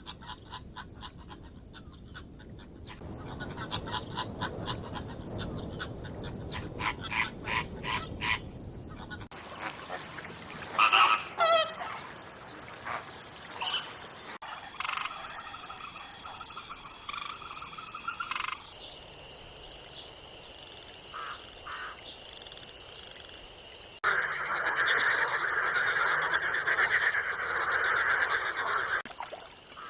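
A run of short animal and nature sound clips cut one after another. First come rapid, evenly repeated pulsing calls for several seconds. Then there are short chirping calls with rising and falling pitch, a steady high trill, and near the end about five seconds of loud rushing noise.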